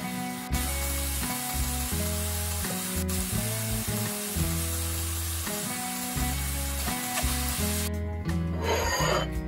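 Ground meat and onion sizzling in a frying pan as they are stirred with a spatula, over soft background music. Near the end the sizzling stops, followed by a short burst of noise.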